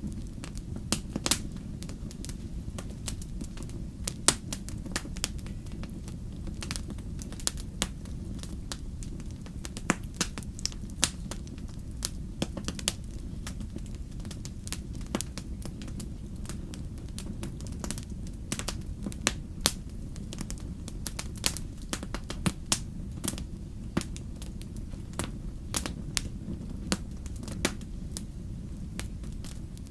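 Wood fire in a fireplace crackling, with many irregular sharp snaps and pops over a steady low rumble of flame.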